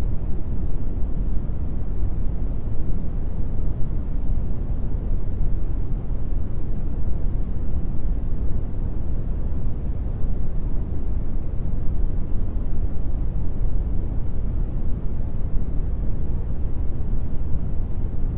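Steady synthetic brown noise: an even, deep hiss that is strongest in the bass and thins out toward the treble, unchanging throughout.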